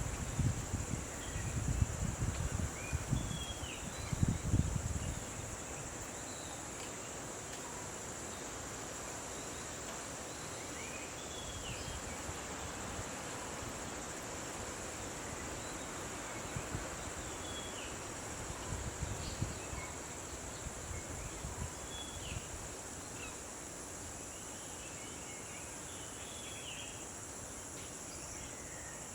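Steady high-pitched drone of insects, with scattered short bird chirps. Low rumbling gusts come in the first few seconds and again briefly later on.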